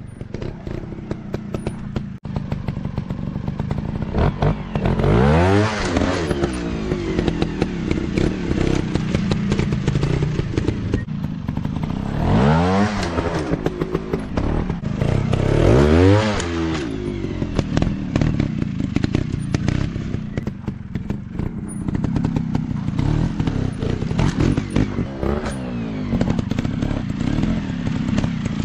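Dirt bike engines running throughout, with several sharp rev bursts that climb and fall back, about 5, 13 and 16 seconds in and again at the end.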